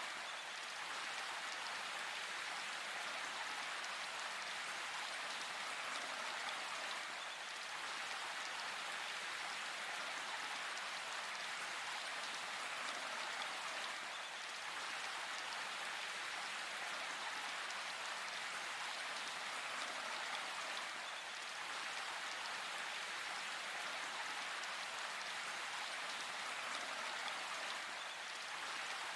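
Steady rain falling in a forest: an even, unbroken hiss of raindrops, with no thunder.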